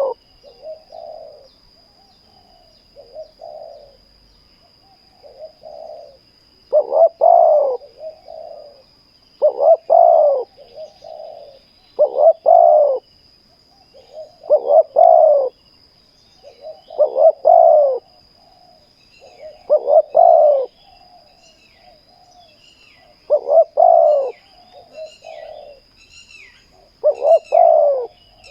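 Spotted doves cooing: a loud double coo about every two and a half seconds, with softer coo notes in between.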